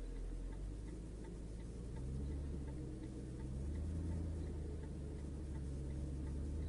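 A steady low vehicle hum with a light, regular ticking over it, about three ticks a second.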